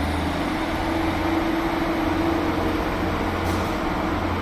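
Class 156 Sprinter diesel multiple unit pulling out of the station, its underfloor diesel engines giving a steady drone with a held mid-pitched tone over a low hum.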